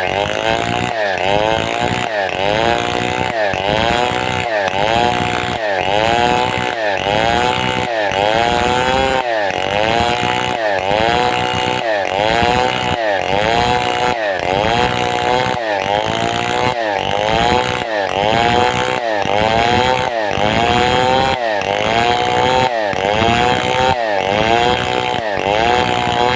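Large two-stroke Stihl 070-type chainsaw cutting timber lengthwise into boards. The engine pitch dips and climbs back about once a second, very regularly.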